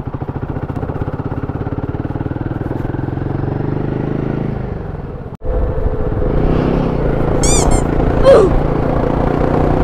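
Royal Enfield Himalayan 450's single-cylinder engine pulling away at low speed with an even, rapid firing pulse. About five seconds in, the sound cuts to the same engine running louder at highway speed with wind noise. Brief high chirps and a short rising squeal come near the end.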